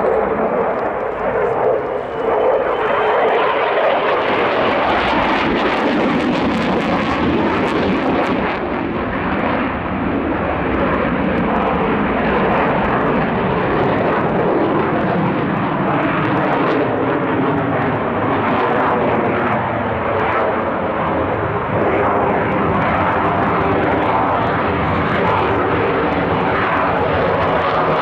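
Swiss Air Force F/A-18 Hornet's twin jet engines during a display, a loud, continuous jet noise whose pitch slides as the aircraft passes and turns.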